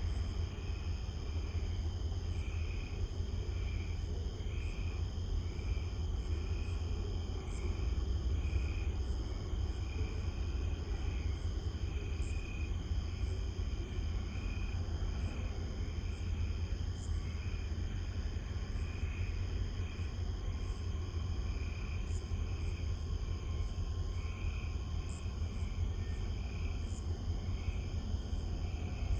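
Insects chirping in an even rhythm, about two pulses a second, over a steady low rumble.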